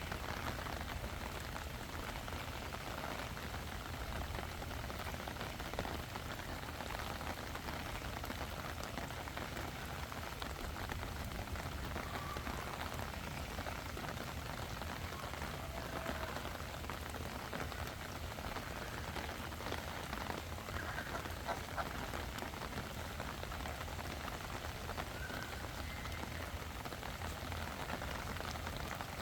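Steady wind and water noise, with a low rumble of wind on the microphone. A few faint short calls rise above it in the second half.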